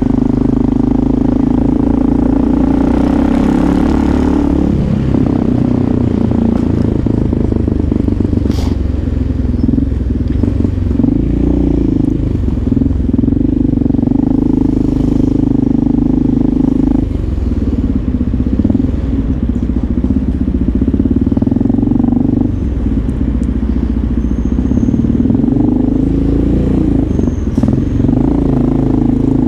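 Motorcycle engine running while riding, loud and steady, with a low rumble beneath. The engine note holds for a few seconds at a time and dips and comes back several times as the throttle changes.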